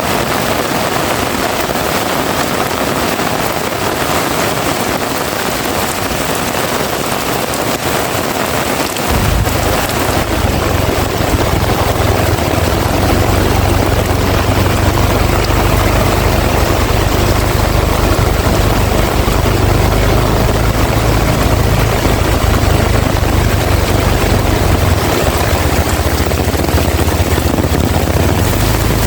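Heavy rain pouring down in a dense, steady hiss. About nine seconds in, a deep low rumble comes in suddenly underneath and stays.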